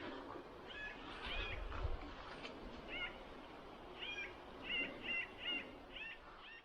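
A small bird calling in short, faint chirps, a dozen or so, coming quicker near the end.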